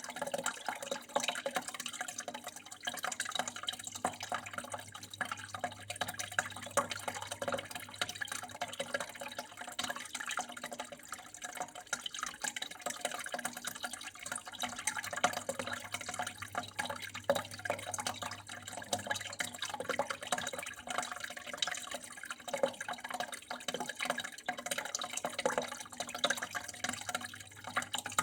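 Water flowing and trickling steadily, with a dense irregular patter of small splashes and drips, over a low steady hum.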